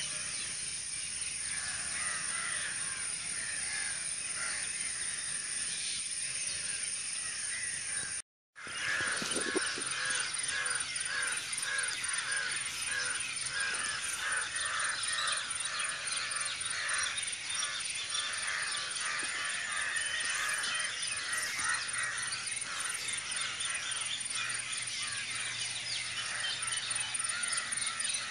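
A gathering of crows cawing over and over, with other birds calling among them, over a steady high-pitched drone. The sound cuts out completely for a moment about eight seconds in, then the calling grows denser.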